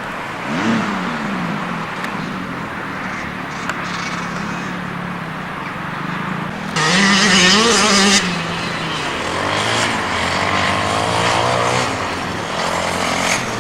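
Motocross bikes running on a dirt track, engines revving up and down as they ride past. One bike passes close and loud about seven seconds in, its revs rising and falling, while others run further off.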